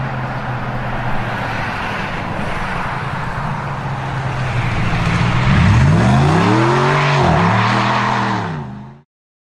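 Light truck engine running steadily, then revved up and down in a few swells, loudest about six seconds in, before the sound fades out near the end.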